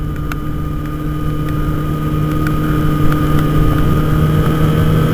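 Kawasaki ZX-6R's inline-four engine running steadily at cruising speed, heard from a helmet camera with wind rushing over the microphone; it grows slightly louder toward the end.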